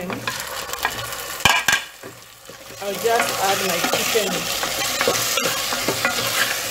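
Raw chicken pieces going into hot olive oil and onions in an enamel pot: a couple of sharp knocks about a second and a half in, then sizzling frying from about three seconds in, with a wooden spoon stirring and scraping the pot.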